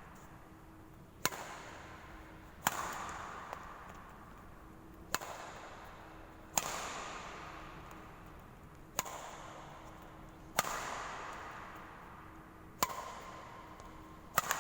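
Badminton rackets striking a shuttlecock: eight sharp smacks, roughly in pairs about a second and a half apart, each ringing out in a long echo.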